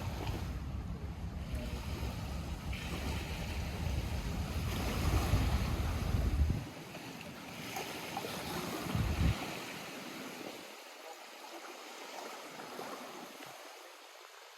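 Lake water lapping and splashing at the shore, with a low wind rumble on the microphone that stops suddenly about halfway through; the water sound then grows quieter.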